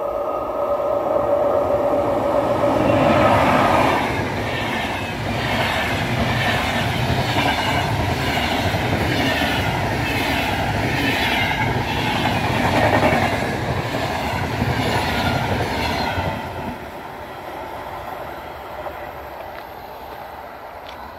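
Electric-hauled VR double-deck Intercity train passing at speed. It opens with a steady high tone that stops about four seconds in, then the coaches run by, rumbling with a repeating clickety-clack of wheels over the rails. The sound drops away about sixteen seconds in as the last coach passes, and fades.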